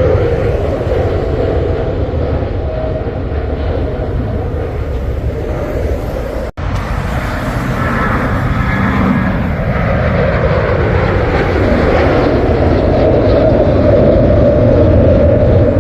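Jet airliner engines at takeoff power, a loud continuous rumble with a steady drone. The sound cuts out for an instant about six and a half seconds in, then builds louder toward the end.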